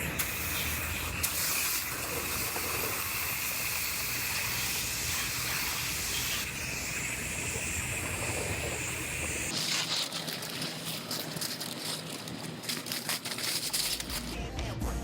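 Chip guard coating being sprayed onto the bottom of a car's rocker panel: a steady hiss of spray. About two-thirds of the way through, it breaks into a run of short, stuttering spurts.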